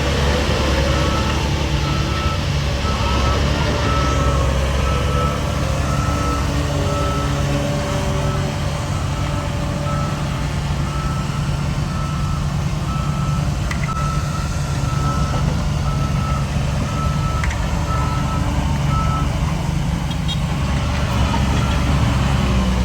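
A heavy machine's reverse alarm beeping at a steady pace, about once a second, over the low rumble of a diesel engine. The beeping stops a few seconds before the end.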